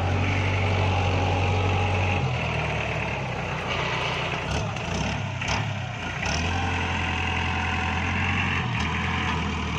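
Iseki NT554 tractor's diesel engine running steadily under work, its hum shifting a couple of times as the load changes.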